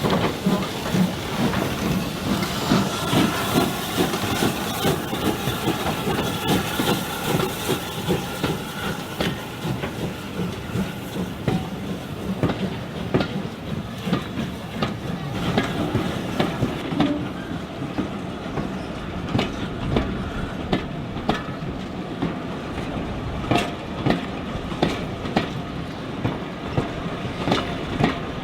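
Train running along the track, its wheels clacking over the rail joints in an uneven series of clicks over a steady rumble.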